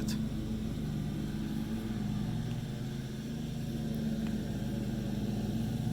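A steady low mechanical hum, engine-like, running throughout, with a faint click about four seconds in.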